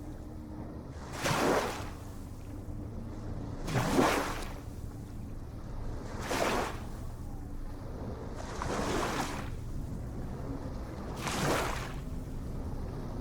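Ocean surf: waves breaking and washing in a steady rhythm, one swell of rushing water about every two and a half seconds, five in all, over a constant low rumble.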